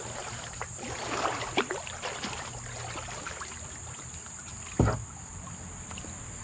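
Kayak paddle strokes and water splashing as a kayak moves along, with a single sharp knock about five seconds in, the loudest sound here.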